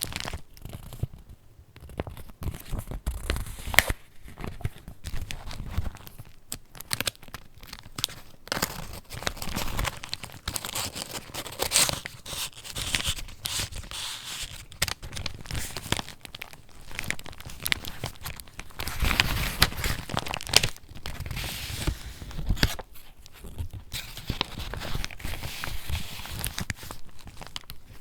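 Paper pages of a handmade junk journal being handled and turned, crinkling and rustling with a continuous run of irregular crisp clicks and brief bursts.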